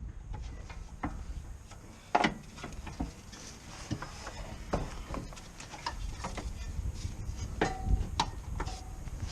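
Irregular knocks and metallic clinks of hand tools and car parts being handled, the loudest knock about two seconds in and two short metallic rings near the end.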